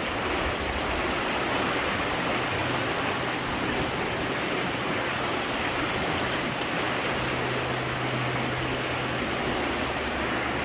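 Steady rushing of the flooded Murray River, an even wash of water noise, with a faint low hum underneath.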